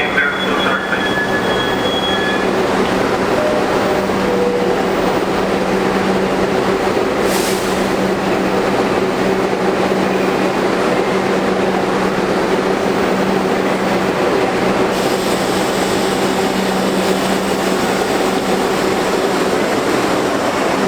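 R62 subway train running between stations, heard from aboard: a steady rumble of steel wheels on rail with a constant electrical hum.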